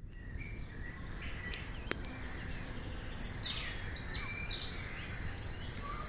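Wild birds singing and chirping over a steady low outdoor rumble, with a run of quick, falling high-pitched song phrases about halfway through. Two sharp clicks come early on.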